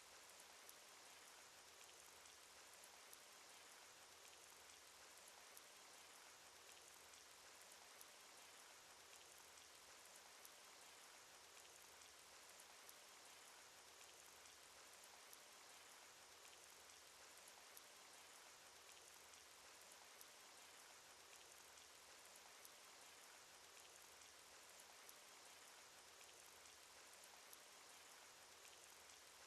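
Faint, steady rain sound effect: an even hiss of rainfall with scattered light drop ticks.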